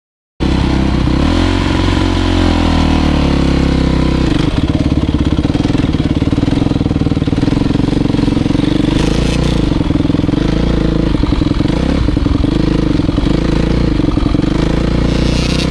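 Motocross dirt bike engine running, its pitch rising and falling briefly in the first few seconds, then holding a steady low speed.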